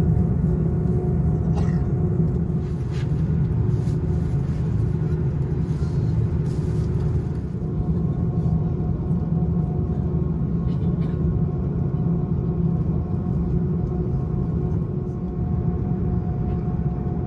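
Steady low rumble inside the cabin of an Airbus A330-900neo with Rolls-Royce Trent 7000 engines, with a faint steady hum and a few light clicks.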